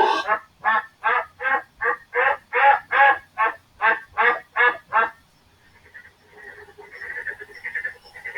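A frog croaking about a dozen times in an even rhythm, roughly three croaks a second, for about five seconds. A fainter, rougher sound follows near the end.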